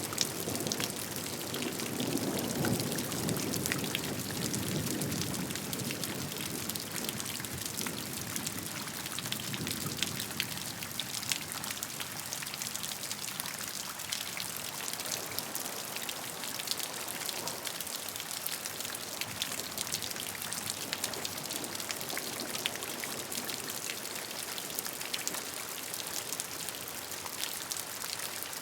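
Steady rain with many distinct drop ticks landing on a surface. A lower rushing sound is stronger for the first ten seconds or so, then fades, leaving mostly the lighter drop ticks.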